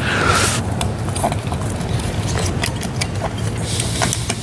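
Scattered clicks, knocks and scrapes of hands and tools working a section of PVC pipe loose in the dirt, with a brief scraping hiss near the start and again near the end, over a steady low rumble.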